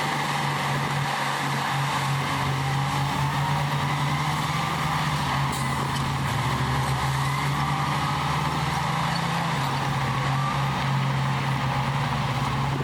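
Heavy diesel earthmoving machinery running steadily under load, with a high whine that slowly rises and falls over the engine note.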